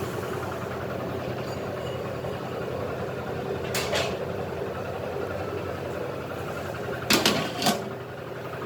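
Metal pot lid being set on a cooking pot, clanking twice about four seconds in and in a quick cluster of three near the end, over a steady low hum.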